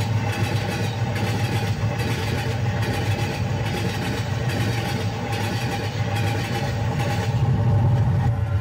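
Steam train running, a steady low rumble with a regular beat a little more than once a second. The rumble swells near the end.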